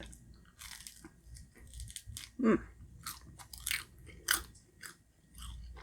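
Close-up chewing of a crispy fried scallion pancake: a series of sharp crunches with wet mouth sounds between them, and a short "mm" about two and a half seconds in.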